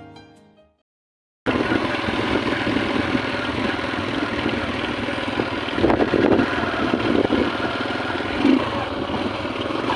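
Motorcycle running on the road, a dense steady noise with small swells, cutting in abruptly about a second and a half in, after a fading piano tune.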